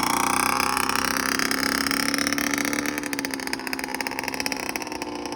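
1997 Kawasaki KX60's small two-stroke single-cylinder engine running at steady revs, its pitch slowly dropping and the sound gradually fading as the bike eases off and rides away.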